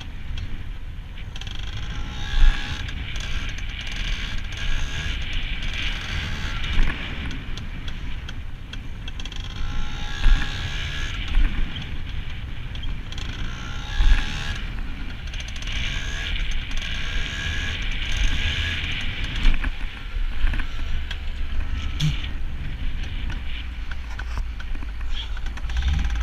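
Yamaha PW80's single-cylinder two-stroke engine running as the bike is ridden, its pitch rising and falling with the throttle, over low rumble on the camera microphone and a few sudden thumps.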